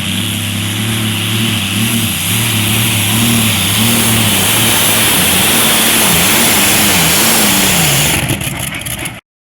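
A pulling vehicle's engine running hard under load while dragging the sled, its pitch wavering up and down, with a loud rushing noise building about two seconds in. The sound cuts off abruptly near the end.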